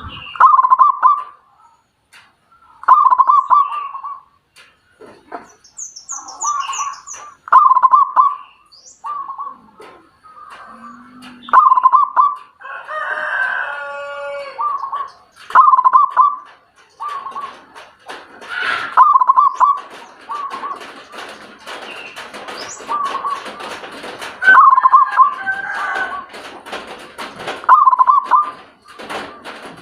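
A bird calling over and over, short loud calls every one to three seconds, with one longer, fuller call near the middle and faint high chirps in between.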